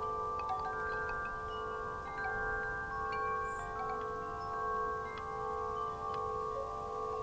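Wind chimes ringing in the breeze, several tubes struck again and again so their tones overlap and hang on in a steady, shimmering wash.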